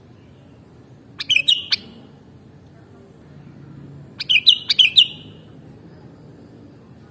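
Sooty-headed bulbul (kutilang) giving two short, quick chirping song phrases about three seconds apart, the second a little longer.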